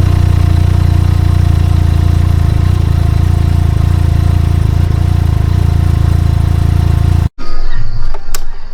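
Can-Am Ryker engine idling steadily, with an even exhaust note. It cuts off abruptly about seven seconds in.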